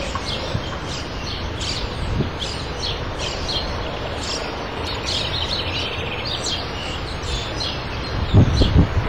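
Small birds chirping, with many short high calls repeating over a steady outdoor noise. A few loud low bumps come about 8 s in, near the end.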